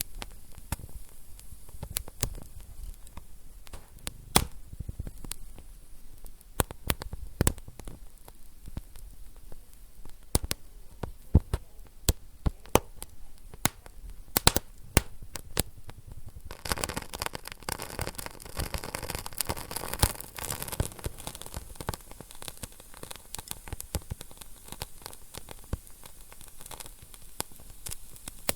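Wood fire burning in a fireplace, crackling with sharp, irregular pops. About halfway through, a steady hiss joins in and the crackling grows denser.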